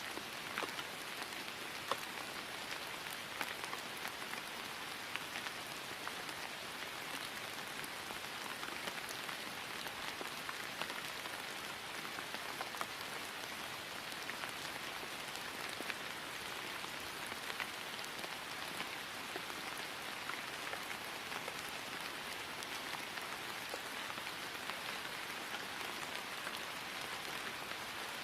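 Steady rain falling on grass, an even hiss with the patter of many individual drops.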